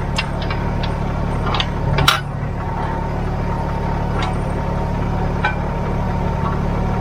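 Kubota BX compact tractor's three-cylinder diesel engine running steadily, heard from inside its cab, with a thin steady whine above it. A few sharp clicks and knocks come through, the loudest about two seconds in.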